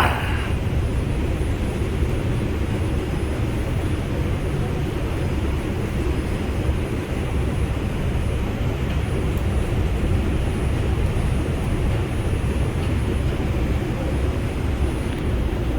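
Inside an R142 subway car running steadily on the express track: a constant low rumble of wheels on rail and running gear.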